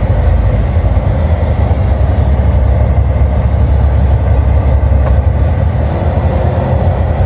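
Semi truck's engine and road noise heard inside the cab: a loud, steady low drone that does not change.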